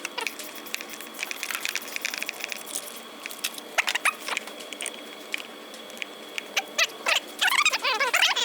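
Hand tools working on an engine's metal parts: rapid irregular clicking and short squeaky rasps, busiest at the start and again from about seven seconds in.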